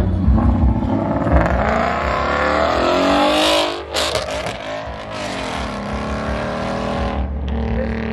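A Ford Mustang's engine revving hard under acceleration, its pitch climbing and falling several times, with a burst of loud hiss about three and a half seconds in.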